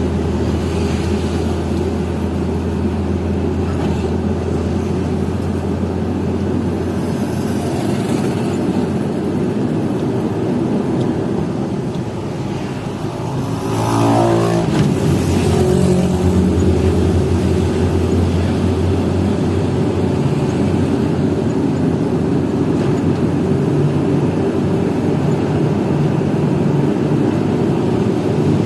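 Hino FL 260 JT truck's six-cylinder diesel engine running steadily under a heavy coal load. About twelve seconds in the sound dips briefly, then the engine note changes and comes back a little louder.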